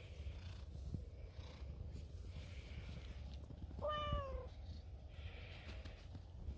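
Stray cat purring steadily, with one short meow that falls in pitch about four seconds in.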